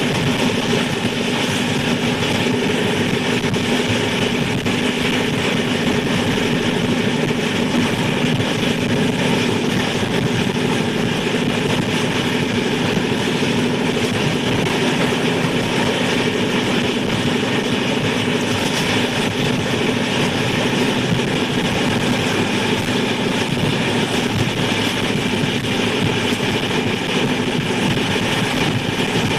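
A steady engine drone with a constant low hum over a hiss, running evenly without change.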